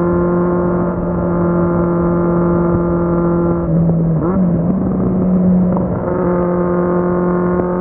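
Kawasaki Z750's inline-four engine running at a steady road speed, heard from the rider's position. About four seconds in, its pitch dips and wavers for a couple of seconds, then settles back into a steady note.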